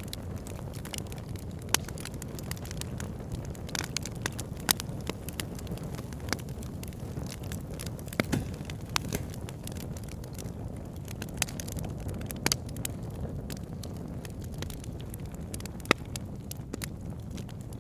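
Wood fire burning in a fireplace: a steady low rushing of flames with irregular sharp crackles and pops, a few louder snaps standing out.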